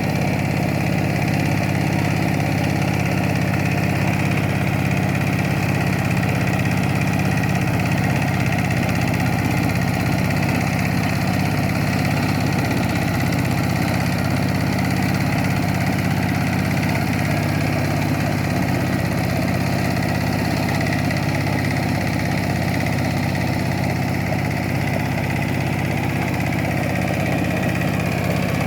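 Kubota K700 tractor engine running steadily, an even low-pitched drone with no change in speed.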